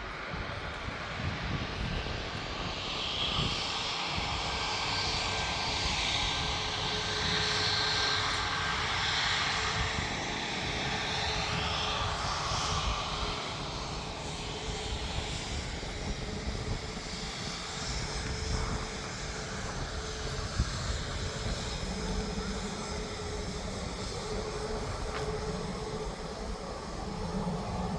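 Jet airliner's engines as it lands: a steady jet rumble with a high whine, loudest in the first half and easing off toward the end.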